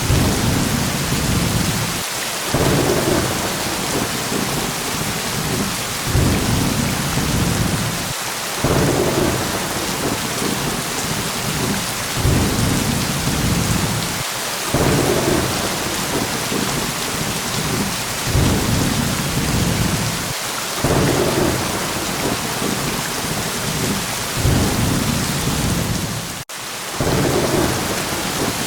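Steady heavy rain with low thunder rumbles that swell and fade in the same pattern about every six seconds, a short recording looped. There is a sharp momentary dropout near the end.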